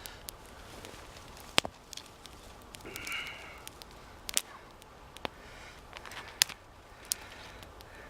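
Small campfire of wet branches burning, with scattered sharp pops and crackles at irregular intervals and a short hiss about three seconds in. The damp wood smoulders more than it burns.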